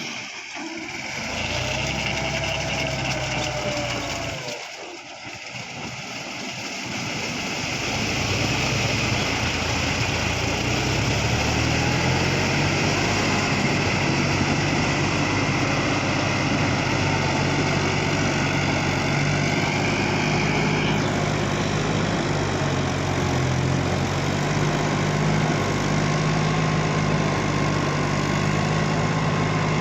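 New Holland 6010 tractor's diesel engine running. It dips briefly around five seconds, then settles into a steady, even run.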